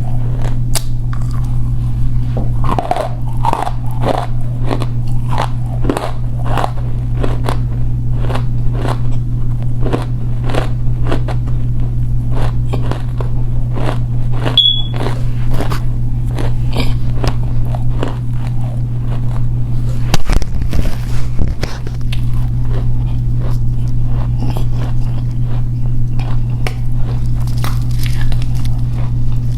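Edible clay being bitten and chewed close to the microphone: a long run of dry, crackly crunches, about two a second in the first half and more scattered later. A steady low hum runs underneath throughout.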